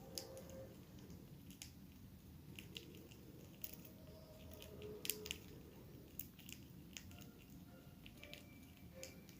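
Small birds making faint scattered clicks and ticks, with a few faint short chirps.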